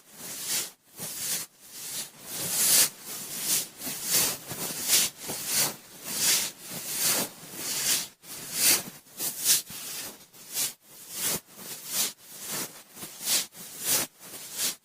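Cotton swab rubbing and swirling round inside the ear, picked up close by a binaural microphone: a loud, scratchy rustle that swells and fades in repeated strokes, about one or two a second.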